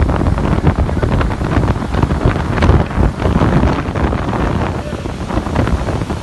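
Strong storm wind gusting hard and buffeting a phone's microphone, a loud, continuous rumbling blast with irregular crackles.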